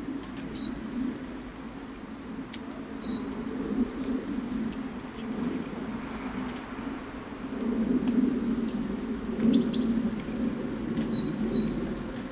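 Songbird calls: about five short, sharp chirps that each drop steeply in pitch, spaced a few seconds apart, over a steady low background rumble.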